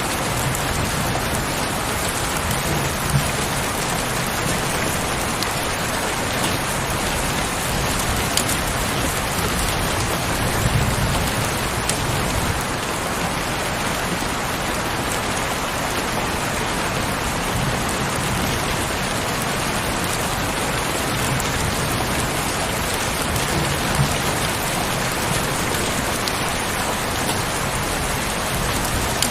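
Steady heavy rain falling, with a few sharper drop impacts and a low rumble underneath at times.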